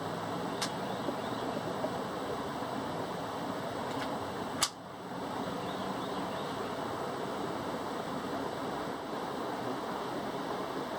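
Steady background hiss with a few faint clicks and one sharper click about halfway through. No shot is fired.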